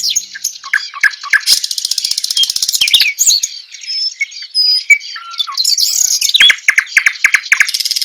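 Several small birds chirping and calling over one another, with fast rattling trills about a second and a half in and again near the end.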